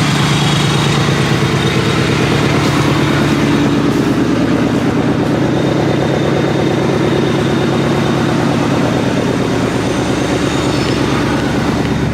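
Supercharged New Edge Mustang GT's 4.6-litre V8 idling steadily through shorty headers, a catless X-pipe and a Borla ATAK cat-back exhaust, a loud, even burble while the car warms up.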